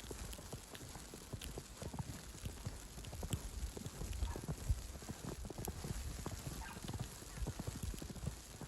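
Footsteps on snow at a walking pace: a steady run of soft low crunches over a light hiss of falling snow and wind.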